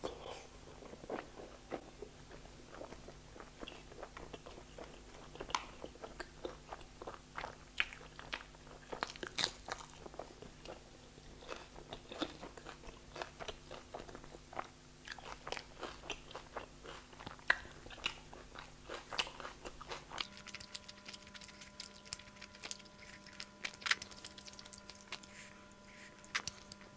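Chewing and mouth sounds of a person eating a big bite of chicken wrapped in butter naan, with many small irregular clicks and smacks.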